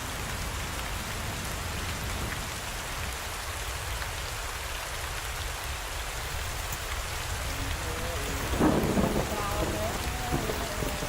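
Steady rain falling, with a low rumble underneath. A brief pitched sound rises out of it about eight and a half seconds in.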